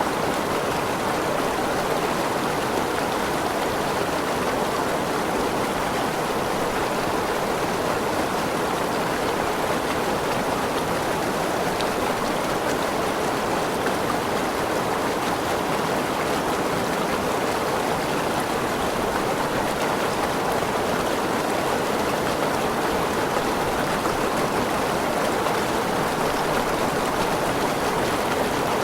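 Tropical forest waterfall: a steady, even rush of falling and splashing water.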